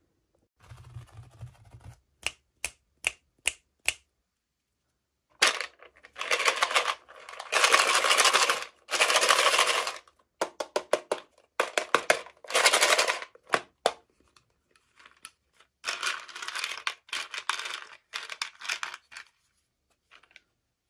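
Toy doll packaging being handled and opened by hand: a run of sharp clicks and taps, then bursts of rustling from the packaging, with more clicks between them.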